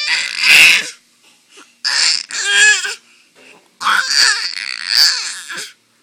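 Baby's dinosaur-impression screeching: three loud, shrill screeches with short pauses between, the last the longest.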